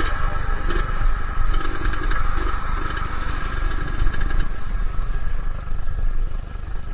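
Suzuki Satria two-stroke motorcycle engine running steadily.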